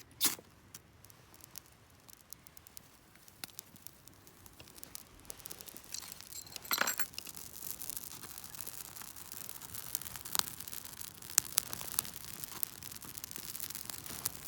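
Wood campfire crackling and snapping, with a hiss that builds from about halfway through as the fire takes hold.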